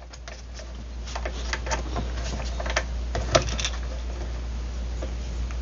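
Light, irregular clicks and taps of small metal clamp parts being handled on a homemade mini bench vise built from camera clamps, over a steady low hum.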